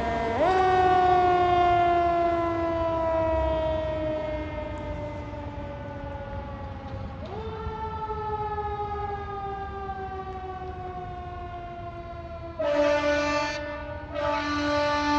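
Fire engine siren wailing: the pitch sweeps up quickly and then falls slowly over about seven seconds, twice, then two loud blasts of the truck's air horn near the end, the second still sounding as it ends.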